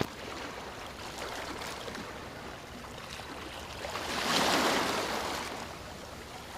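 Sea waves washing, with one wave swelling louder about four seconds in and then fading.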